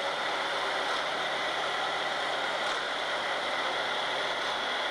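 Mercedes-Benz C260L engine running steadily just after a cold start, heard in a phone recording, with the abnormal cold-start noise that the owner calls a "cha-cha-cha" sound. The dealer's preliminary computer check puts it down to a small fault in a solenoid valve on the camshaft.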